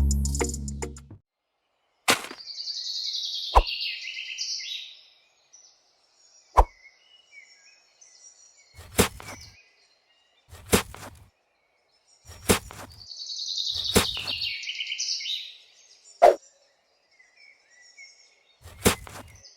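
Music fades out at the start. After that come scattered sharp clicks and knocks, some single and some in short clusters, and two spells of high twittering chirps, one a few seconds in and one after the middle.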